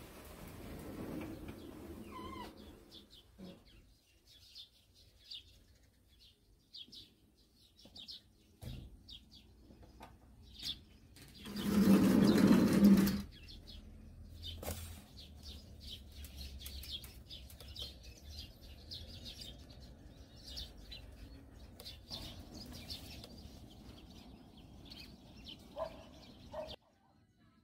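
Small birds chirping and twittering on and off in short, high calls, with one loud burst of noise lasting about a second and a half midway through.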